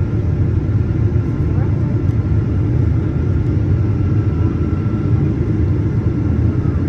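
Steady low rumble of a Boeing 737-900ER's engines and airflow, heard from inside the passenger cabin.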